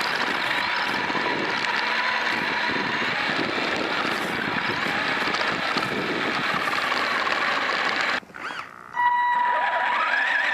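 Electric motor and drivetrain of a Vaterra Twin Hammers RC rock racer whining as it is driven through deep snow, its pitch rising and falling with the throttle over a steady rushing noise. The sound cuts out briefly about eight seconds in and then resumes.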